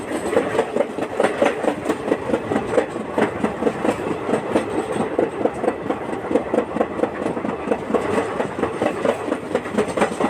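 Train running, its wheels giving a dense, continuous clatter over the rails.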